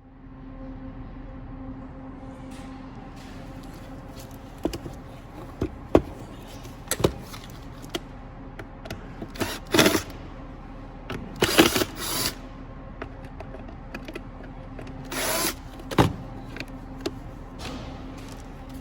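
Cordless drill-driver spinning briefly three times, backing screws out of a blower motor's plastic housing, with scattered clicks and knocks of the plastic parts being handled. A steady low hum runs underneath.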